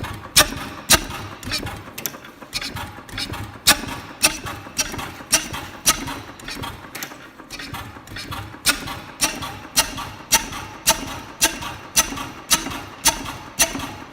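Crossley KK hot tube oil engine running, with a sharp, even knock about twice a second; some beats are louder than others.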